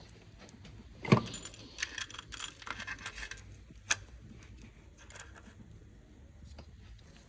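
Small metal objects clinking and jangling, most likely hand tools or engine parts being handled. A sharp knock comes about a second in, then a flurry of clinks and a single click a little later.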